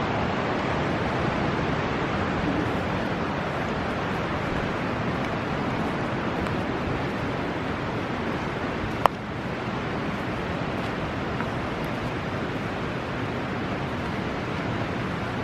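Fast-flowing Niagara River rapids rushing steadily, heard up close from the bank. A single sharp click about nine seconds in.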